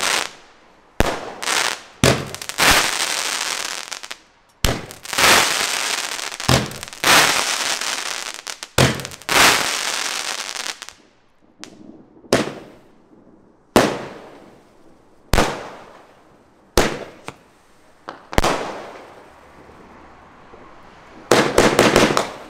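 Fireworks going off: a fast run of sharp bangs with hissing crackle for the first ten seconds or so, then single bangs about a second or more apart, and a fresh burst of rapid crackling near the end.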